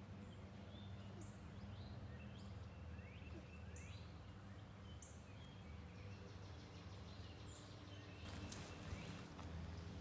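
Faint, steady low drone of a helicopter, with small birds chirping short high notes and quick rising calls throughout. A brief rustle comes about eight seconds in.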